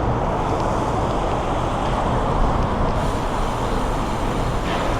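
Steady rush of wind and road noise from a bicycle ride, with city traffic running alongside.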